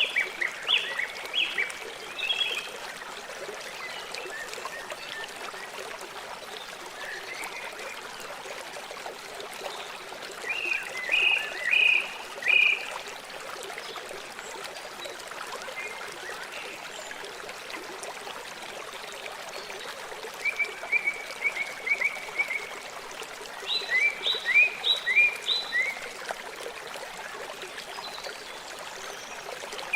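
A river flowing steadily. Over it, a few short, high chirping calls in quick groups of four to six come several times, the loudest sounds heard.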